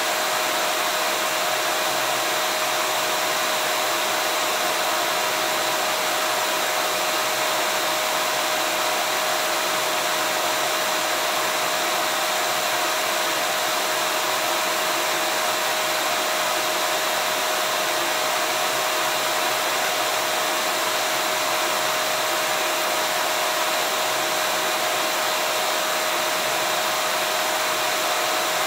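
Vacuum cleaner running steadily: an unchanging rushing hiss with a constant whine through it.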